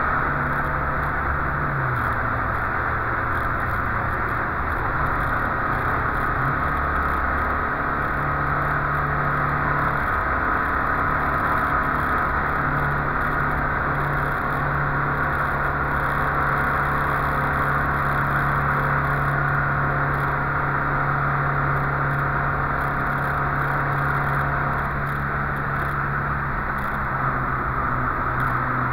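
Volvo 144S's four-cylinder engine pulling steadily, heard from inside the cabin over steady road and wind noise. The engine note steps down about two seconds in and back up around seven seconds in.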